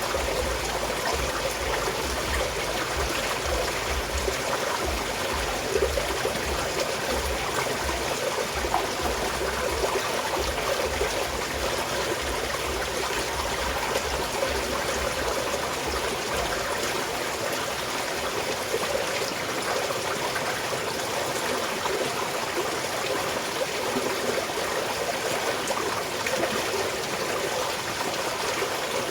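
Small mountain stream flowing and trickling steadily over rocks, an even rush of water. A faint low rumble under it stops a little past halfway.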